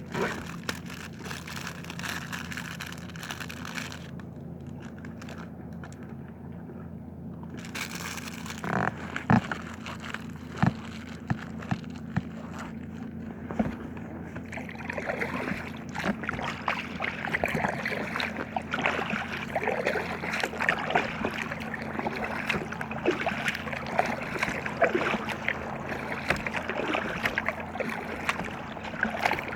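Paddle strokes and water sloshing and gurgling against an inflatable kayak, the splashes coming thicker from about halfway through, over a steady low hum.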